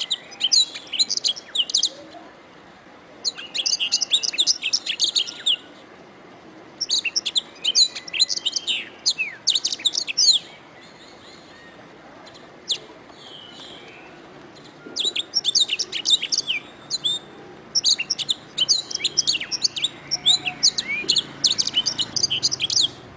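Domestic canary singing: phrases of rapid high chirps and trills lasting a few seconds each, with short pauses between.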